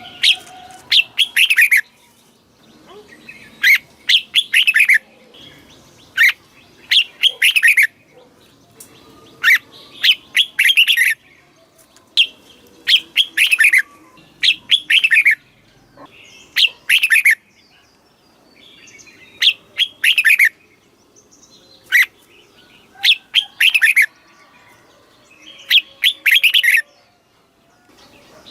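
Red-whiskered bulbul singing: loud, short, clear phrases repeated every second or two with brief pauses, each a quick run of falling whistled notes.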